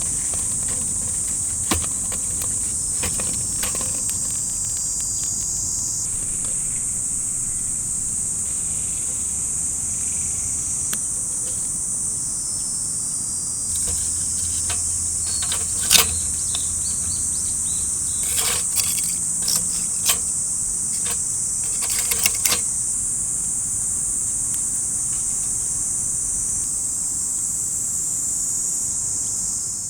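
A steady, high-pitched chorus of insects, with a few sharp clicks or snaps scattered through it, the loudest about halfway through.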